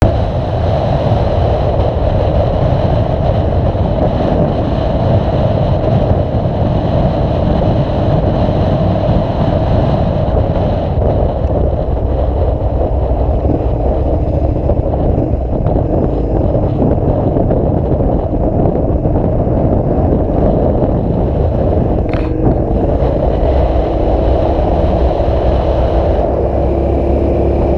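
Steady vehicle and road noise, even and unbroken, with a faint tone rising slightly near the end and a single sharp click about 22 seconds in.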